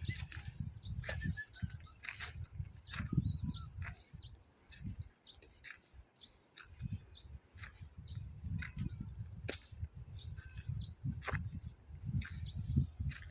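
Small birds chirping, many short high calls scattered through, over an uneven low rumble.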